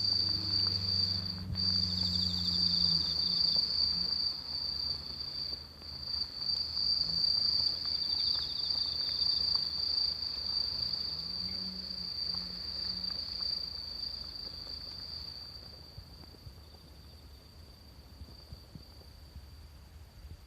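Insects chirring outdoors: one steady, unbroken high-pitched trill that fades somewhat in the last few seconds. A low hum sits under it at the start and again about halfway through.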